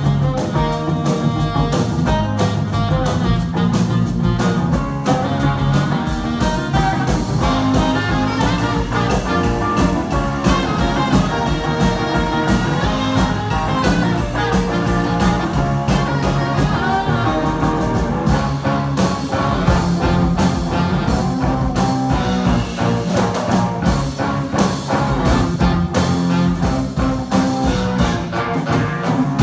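A live band playing an instrumental rock passage, with electric guitar over a steady drum beat.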